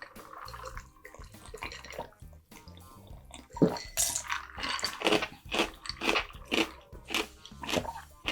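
Close-up chewing of food, wet and smacking, with about two chews a second in the second half. Faint background music underneath.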